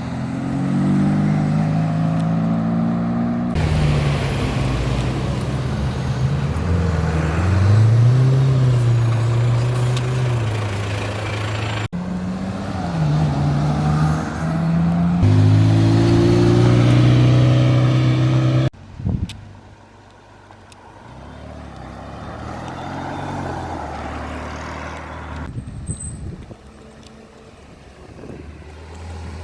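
Ferrari engines revving and accelerating as the cars drive past, the pitch rising and falling with the revs. The sound changes abruptly several times, and it is quieter for the last few seconds after a sudden drop.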